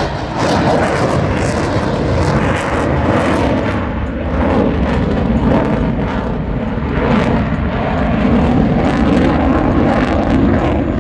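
Boeing F/A-18 Super Hornet jets flying overhead, with loud jet engine noise that stays steady with no break.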